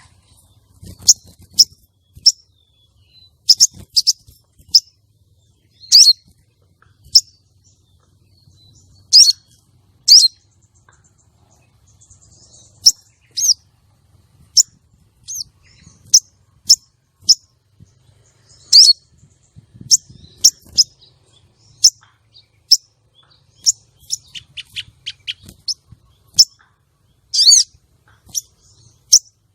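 Female sogon calling: short, sharp, high chirps repeated every second or so at an irregular pace, with a quick run of notes about three-quarters of the way through. This is the call used to lure a male sogon and bring him into breeding condition.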